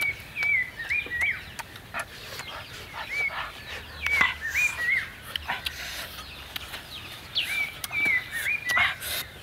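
A bird calling repeatedly in short clusters of three or four quick whistled notes, with pauses between clusters. Alongside are the smacking and clicking sounds of someone eating with his mouth close to the microphone.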